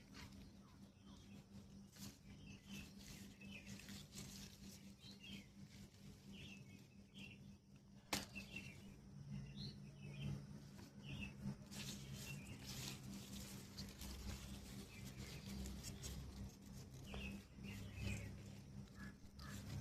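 Faint small-bird chirps, short and scattered, over a steady low hum, with a few sharp clicks, the clearest about eight seconds in.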